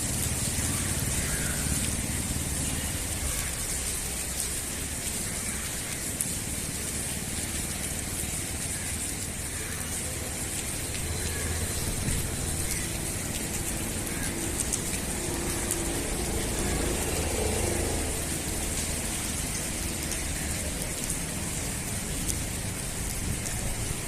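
Steady hiss of heavy rain falling, with a low rumble underneath.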